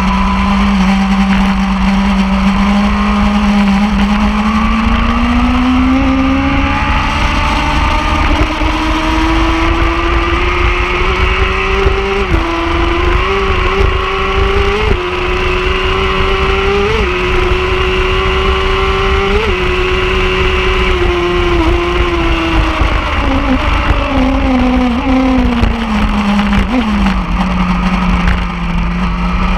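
Superbike engine running hard on a race track. Its pitch climbs over several seconds, holds high with a few brief blips, then falls away over several seconds near the end, over a steady low rush of noise.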